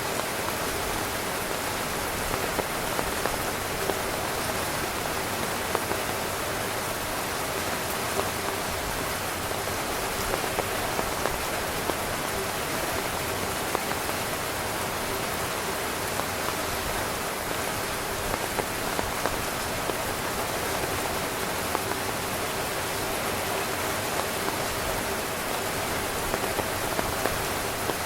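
Steady rain falling on a tent, an even hiss with many scattered louder drop taps.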